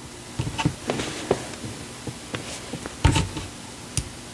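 Scattered clicks and taps of a computer keyboard and mouse, several light ones in the first second and a half and a louder knock about three seconds in.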